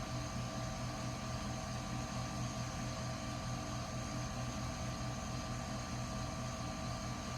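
Steady machine hum: a low drone with several fixed higher tones over a hiss, unchanging throughout.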